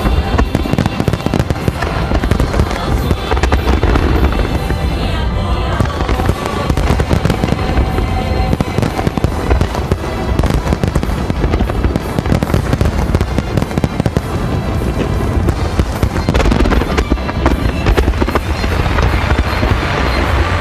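Fireworks bursting continuously, dense crackling over deep booms, with music playing alongside.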